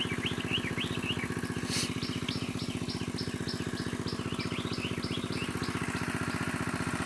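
Engine of a water pump running steadily with a fast, even chugging beat as it pumps the pond dry. Birds chirp over it, with a quick run of repeated high chirps in the middle.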